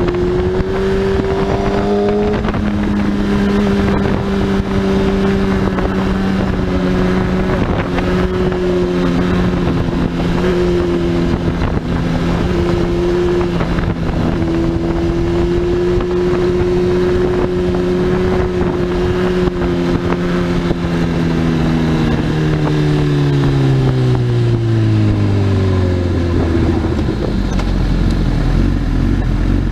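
Sport bike engine heard from on board, running at steady cruising revs with wind rushing past. About three-quarters through, the revs fall away smoothly over several seconds as the throttle is rolled off, settling to a low, steady note near the end.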